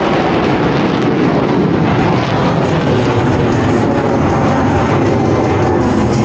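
Steady, loud jet noise from Blue Angels F/A-18 Super Hornets flying overhead during their display.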